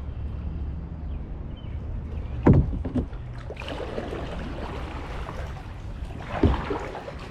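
Kayak paddling: a paddle's strokes through the water, splashing and dripping, with a sharp knock or splash about a third of the way in and another near the end, over a steady low rumble.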